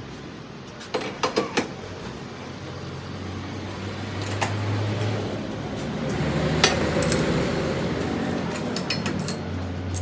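Metal parts clinking and knocking as they are handled: a quick cluster of clinks about a second in, single knocks later, and a run of small clicks near the end, over a low steady machine hum.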